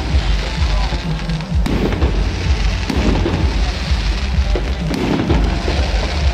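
Fireworks going off overhead: several sharp bangs over a continuous low rumble, mixed with loud music.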